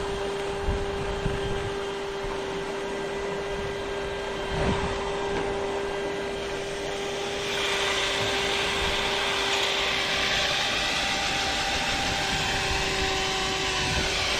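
Power drill running continuously, spinning a rotary brush rod through a dryer vent duct: a steady whine over a rushing, scraping noise that grows louder about halfway through.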